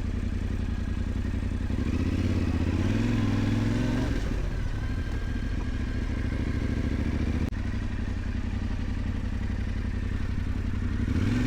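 Yamaha Ténéré 700's parallel-twin engine running on the move, revving up for a couple of seconds about two seconds in, then settling to a steady pace, with another brief rise in revs near the end.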